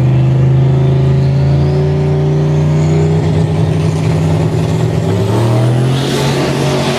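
Car engine running at a steady pitch, with a thin high whine slowly rising. A rush of hissing noise comes in near the end.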